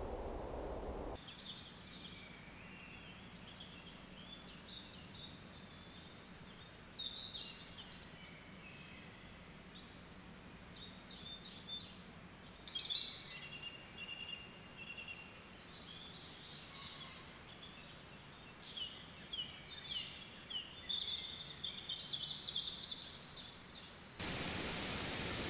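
Several woodland birds chirping and trilling, the calls loudest from about six to ten seconds in. The birdsong cuts in after about a second of low rumbling noise and gives way near the end to a steady hiss.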